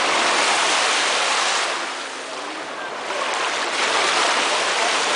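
Small waves of a calm sea washing onto a sandy beach: a hiss of surf that swells, eases off about two seconds in, then swells again.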